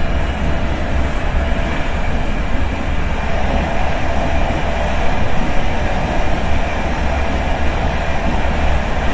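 Intercity train heard from inside a passenger carriage while running: a steady, even rumble of wheels and running gear, heaviest in the low end, with no breaks or sudden knocks.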